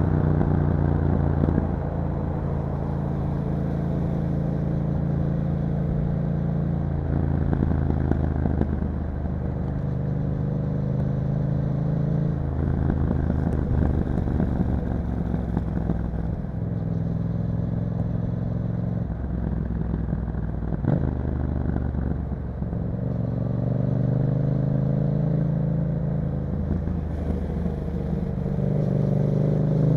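Yamaha MT-07's parallel-twin engine running through an Akrapovic exhaust under way on the road. The engine note holds steady for stretches and changes pitch in steps as gears are shifted, with the revs climbing a couple of times in the last third.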